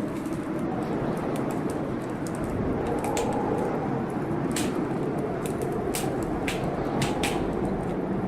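Wood fire crackling in a fireplace, with irregular sharp pops over a steady hiss of storm rain.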